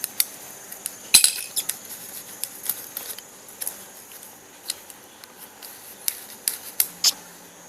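Irregular light clicks and taps of small hard parts being handled during the assembly of a model Stirling engine's piston, the loudest one about a second in and a quick run of clicks near the end.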